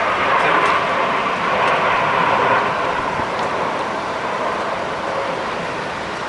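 Jet aircraft passing overhead in a flypast: a steady engine roar that slowly falls in pitch and fades.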